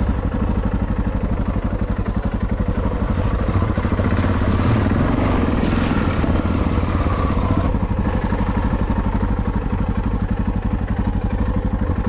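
Motorcycle engine running steadily while riding, its firing pulses dense and even at a constant pace.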